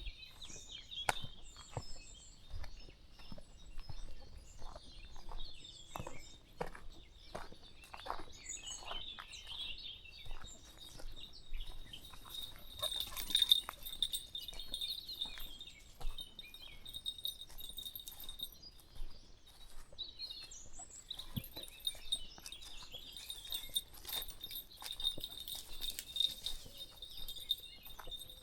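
Footsteps crunching along a country path at a walking pace, under steady high birdsong and chirping.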